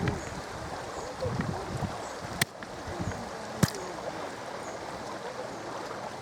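Steady rush of a river stream, with two sharp clacks about two and a half and three and a half seconds in, the second louder: a thick, solid river stone being struck in an attempt to break it.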